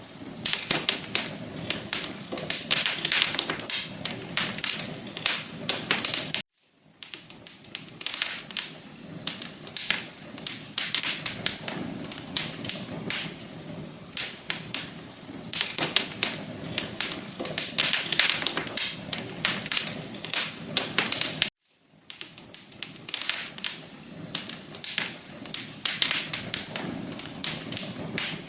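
Wood fire crackling: dense, irregular pops and snaps over a low steady hiss. The sound cuts out to silence briefly twice, about 6 seconds in and about 21 seconds in.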